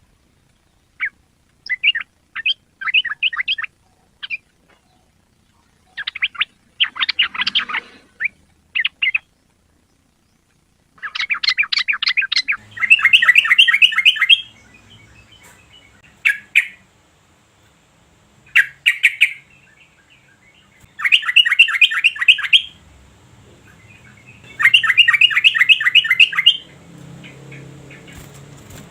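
Yellow-vented bulbul singing in fast runs of repeated chattering notes, each phrase lasting a second or two, with short pauses between phrases.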